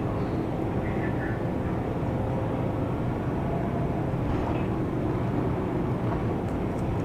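Steady engine and road noise of a police patrol car driving at high speed in a pursuit.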